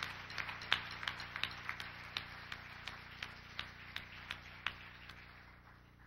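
Audience applause dying away into scattered single claps, which stop about five seconds in.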